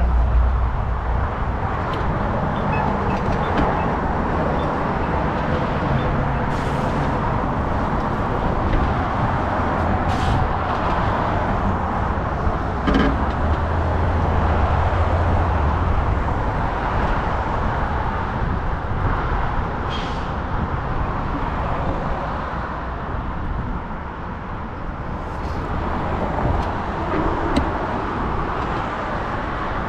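Steady wind rush and road noise from a moving bike, with heavy low rumble and a few short sharp clicks along the way.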